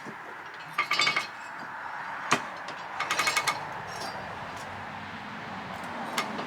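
Steel parts of an old sawmill carriage clinking and rattling as the stuck carriage is worked loose. Two short bursts of ringing metal-on-metal rattle come with a couple of single sharp metallic knocks.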